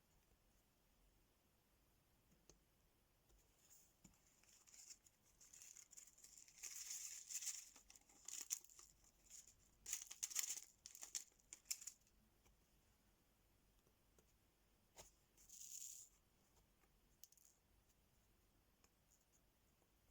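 Quiet peeling and crinkling of diamond-art sticker sheets and their plastic film, in a run of short rustling bursts from a few seconds in, then one more brief burst later on.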